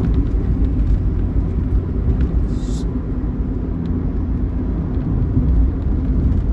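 Steady low rumble of engine and road noise from a vehicle travelling at highway speed, about 100 km/h, with a brief hiss about two and a half seconds in.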